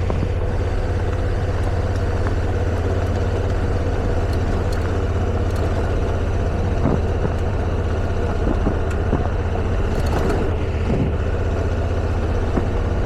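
Motorcycle engine running steadily while riding a hard-packed gravel road, with a few small ticks from gravel under the tyres.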